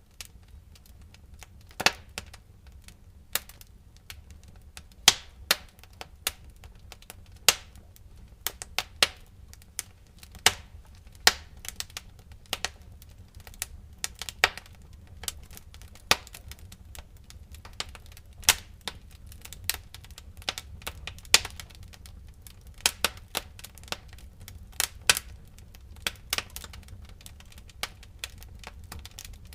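Wood fire crackling in a fireplace: irregular sharp pops and snaps, a few each second with some much louder than the rest, over a faint low rumble.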